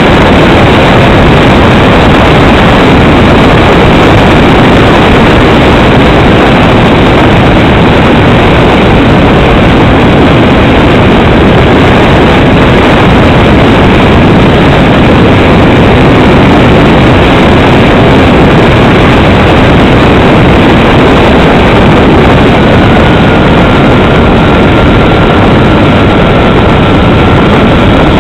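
Steady, loud drone of a Cessna 310 twin-engine aircraft on its landing approach, engine and airflow noise with no clear pitch and no breaks. A faint thin tone comes in about 23 seconds in.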